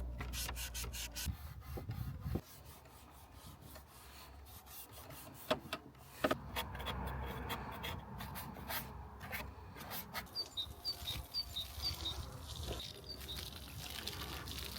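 Repeated rough scraping and rubbing strokes, with a few short high chirps about ten seconds in.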